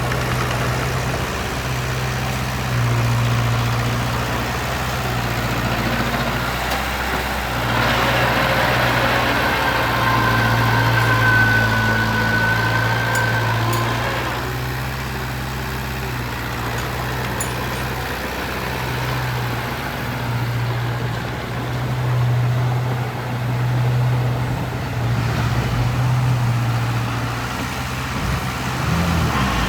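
Diesel engine of a heavy construction machine running, its low hum swelling and easing as the load changes. A high whine joins it for several seconds near the middle.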